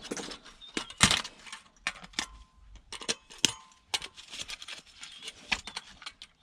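Scattered clicks and clinks of small electronic scrap parts and hand tools being handled on a workbench, the sharpest about a second in and about three and a half seconds in.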